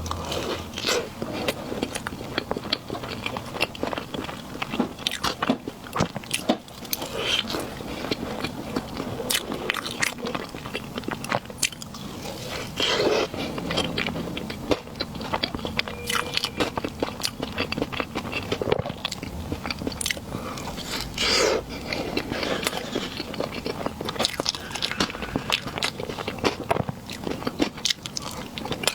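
Close-miked eating of dessert: big bites and steady chewing, heard as a dense, irregular run of small sharp clicks.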